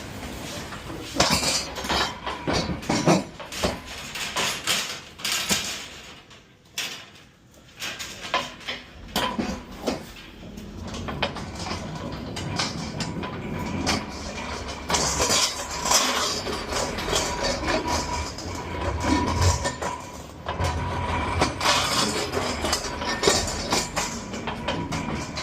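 Metal clattering, knocking and rattling of a pallet jack as loaded pallets are maneuvered out, with irregular knocks through most of it and a brief lull a few seconds in.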